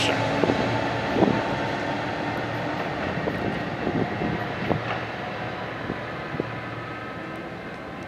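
A steady vehicle rumble slowly fading away, with a few faint clicks.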